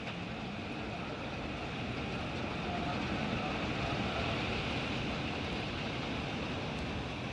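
Hail falling in a dense, steady patter, swelling slightly a few seconds in.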